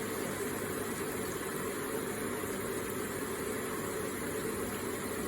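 Electric water feature running: water falling and splashing in a steady, even rush.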